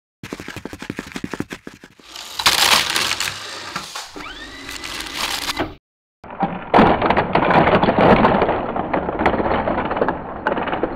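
Sound-effect sequence of a train bearing down: rapid regular clicking, then a loud rush with a short rising whistle, a brief break, and a louder rumbling clatter of knocks as the train crashes through the Lego figures.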